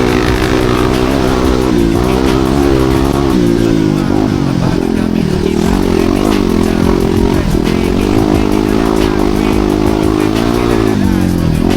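Enduro motorcycle engine revving up and down under load, its pitch rising and falling again and again.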